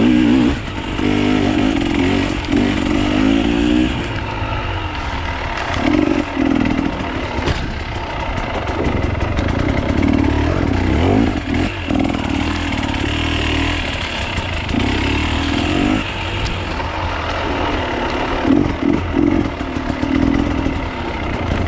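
Off-road enduro motorcycle engines revving, the throttle opened and closed again and again so the engine note surges up and falls back every few seconds over a steady low running sound.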